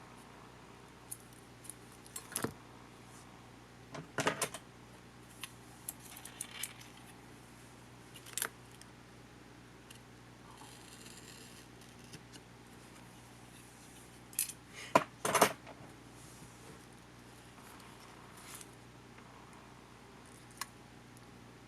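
Scattered clicks and clatters of small tools and camcorder parts being handled during disassembly, loudest in a cluster about fifteen seconds in.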